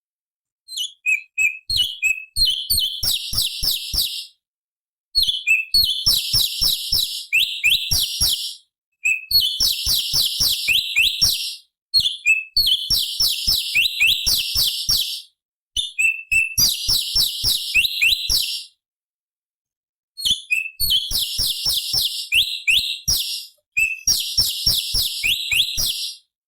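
Cucak cungkok (orange-bellied leafbird) singing in about seven fast, high-pitched chattering phrases of quick notes. Each phrase lasts a few seconds, with short pauses between.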